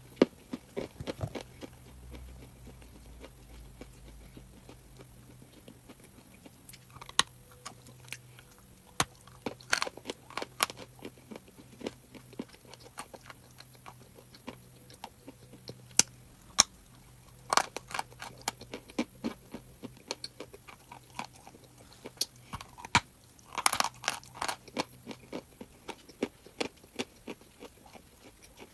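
Close-up crunching and chewing of hard, crunchy chalk, with irregular sharp snaps and crackles, in bursts of several bites and quieter stretches between.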